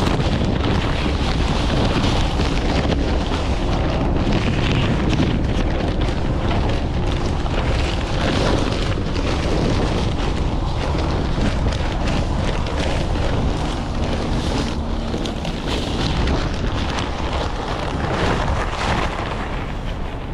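Strong wind blowing across the microphone: a steady, loud rumbling rush with no break.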